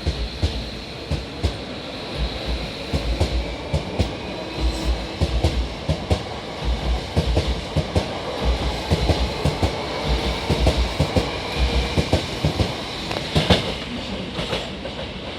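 Hankyu 1000 series electric train pulling out of a station, its wheels clattering over the rail joints in clusters of knocks that come faster as it gathers speed, over a steady faint high whine.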